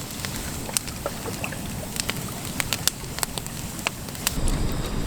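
Campfire crackling with sharp pops scattered throughout, under wind buffeting the microphone; the wind rumble grows stronger about four seconds in.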